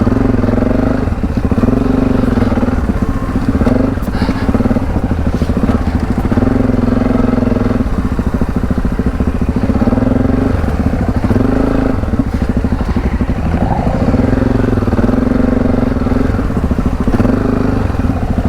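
Adventure motorcycle's parallel-twin engine under load off-road, the pitch rising and falling every couple of seconds as the throttle is opened and closed.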